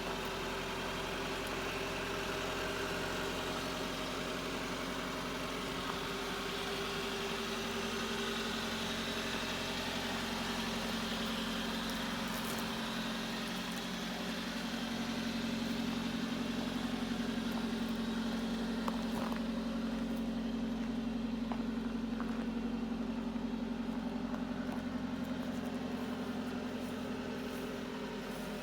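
2009 Suzuki SX4's freshly rebuilt engine idling steadily on its first run after the rebuild, getting slightly louder about halfway through.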